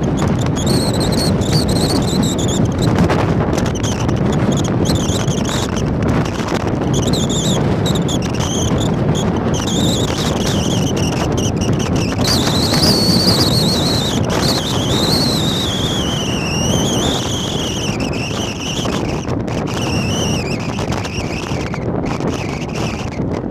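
Jet airliner engines running loud: a deep rumble under a high whine that wavers, rises about halfway through, then falls in pitch. Wind buffets the microphone.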